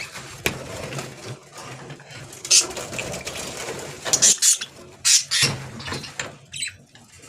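Small cage birds calling in several short, sharp, high-pitched bursts while being handled, with light clinks in between.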